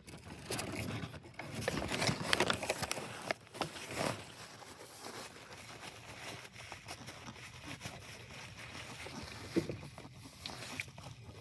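A person chewing a mouthful of burger close to the microphone, with irregular moist crackles and crunches that are busiest in the first few seconds and then fade to quieter chewing.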